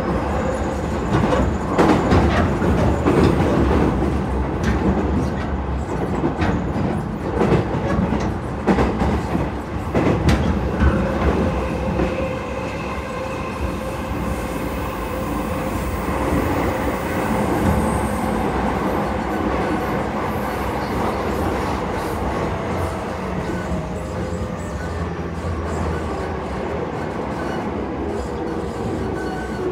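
Inside an electric commuter train car running along the line: a steady rumble of wheels on rails, with clicks and bumps over the track in the first dozen seconds, then a smoother run. Near the end a faint tone slides down in pitch.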